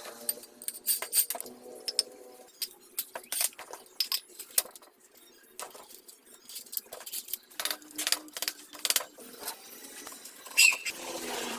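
Small metal parts and hand tools clinking and clicking in an irregular string of sharp taps, some with a brief ring. The loudest clink comes about a second before the end.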